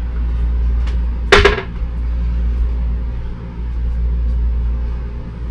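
A single sharp clack about a second in, over a steady low rumble.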